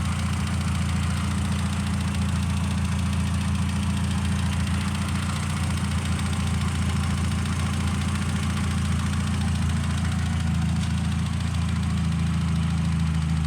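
VW Transporter T4 engine running steadily at idle, a low, even drone, its note shifting slightly near the end.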